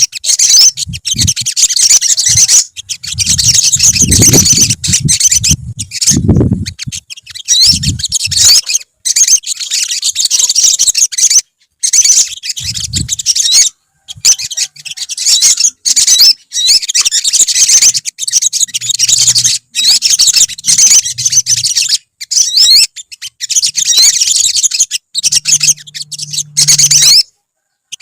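Several olive-backed sunbirds chirping together: rapid, high twittering and thin trills in runs of a few seconds, broken by short silences.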